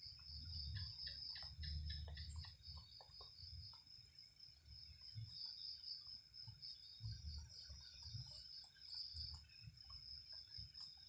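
Night insects, crickets by their sound, trilling in a steady high chorus, over a low rumble that swells and fades and a scatter of faint ticks.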